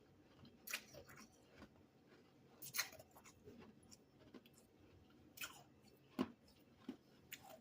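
Freezer frost chunks crunched between the teeth, in quiet, sharp crunches a second or so apart, with a pause near the middle.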